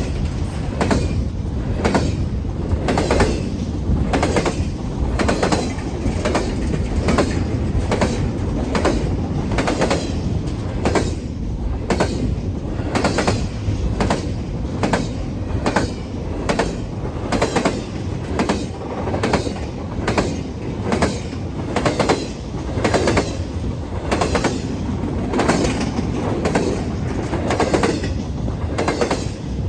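CN freight train's cars rolling past, wheels clacking over the rail in a steady rhythm of about two clicks a second over a constant low rumble.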